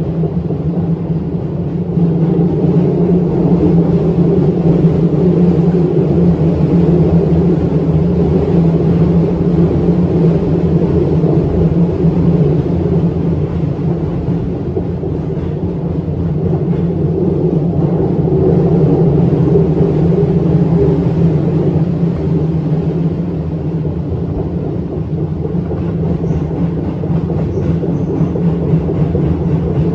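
Electric commuter train running along the track: a steady rumble of wheels and running gear that swells and eases slightly.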